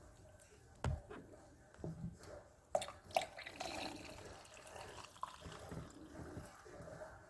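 Water dripping and splashing, with a few sharp knocks about a second in and around three seconds in.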